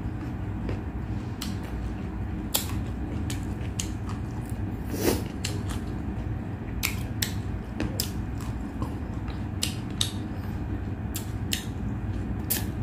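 Close-miked eating sounds: chewing with scattered sharp clicks and smacks, over a steady low hum.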